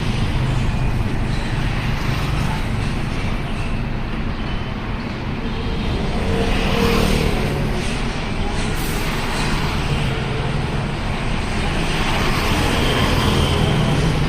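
Road traffic with engines running: a steady low engine rumble under continuous traffic noise.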